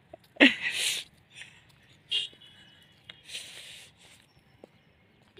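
Birds calling outdoors: a few short, separate calls, one falling in pitch near the start and thin high chirps around the middle, with a brief hiss between them.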